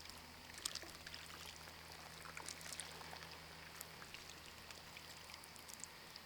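Faint trickling and dripping water around a kayak, with scattered small splashes and ticks, over a steady low hum.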